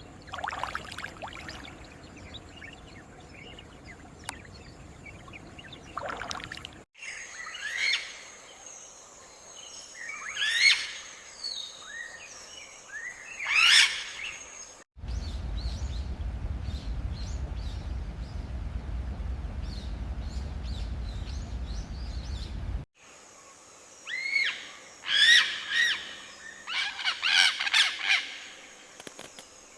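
Birds calling and chirping in a series of short cut-together outdoor recordings. The calls come in clusters, loudest near the end, with a stretch in the middle that holds only a steady low rumble.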